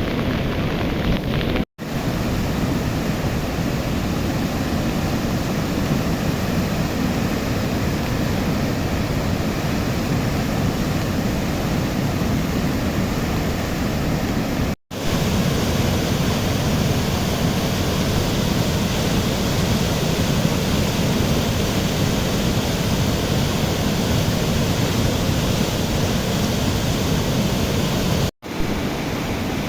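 Steady, loud rush of a river in flood, with three brief dropouts where the footage cuts.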